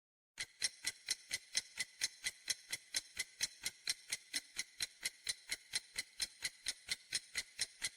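Clock-ticking countdown sound effect: even, sharp ticks at about four a second, starting about half a second in and stopping just before the end. It marks the time to answer a quiz question.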